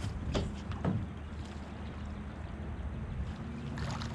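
Boat sitting in fast river current: a steady low rumble of water and wind on the microphone, with two sharp ticks about half a second and a second in.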